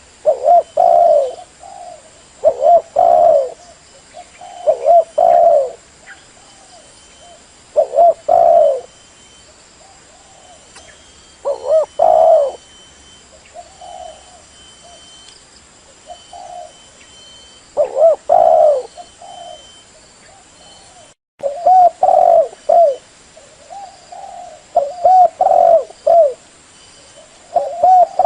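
Spotted dove cooing: short phrases of low coo notes, repeated in groups with pauses of a second or more between them. This is a decoy dove's call, used to draw wild doves.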